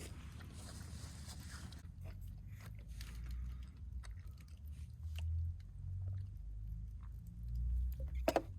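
Close-up chewing and biting into crispy fried chicken, with scattered crunches and a sharp loud crunch near the end, over a steady low rumble.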